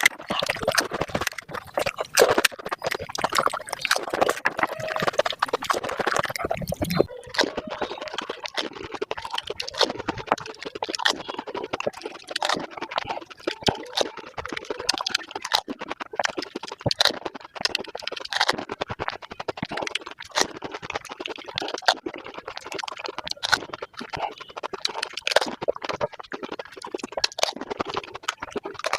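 Close-up eating sounds of pani puri, sped up: rapid crunching of the crisp puri shells and wet slurping of the spiced water, in a dense, fast run of clicks and crackles.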